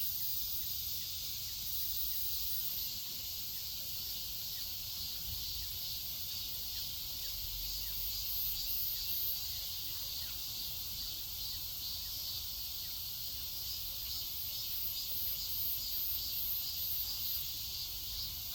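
Steady, high-pitched trilling of an insect chorus, with a few faint short chirps.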